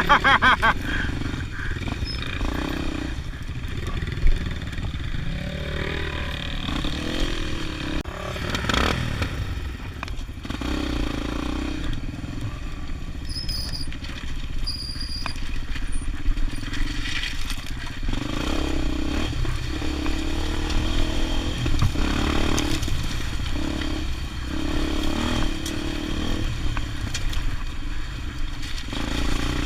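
Motorcycle engine running under way, its pitch rising and falling with the throttle, with some clatter over rough ground.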